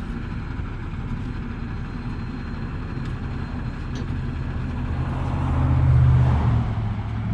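Diesel engine of a 2019 Peterbilt 389 semi truck running under way, a steady low drone with road noise. It grows louder about five to six seconds in, then its pitch steps down a little.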